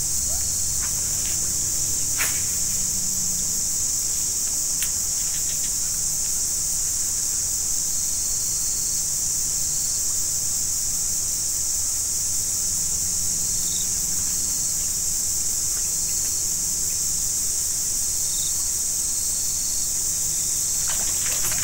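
Steady, high-pitched chorus of insects such as crickets or cicadas, unchanging throughout, with a couple of faint clicks about two and five seconds in.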